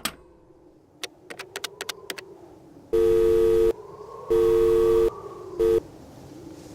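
Telephone sound effect: a click and a quick run of handset clicks, then a steady two-note telephone tone in three bursts, the last one cut short.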